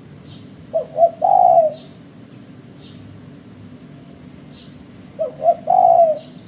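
Spotted dove cooing: two three-note calls, each two short coos followed by a longer drawn-out coo, about four seconds apart. Faint short high chirps come in between.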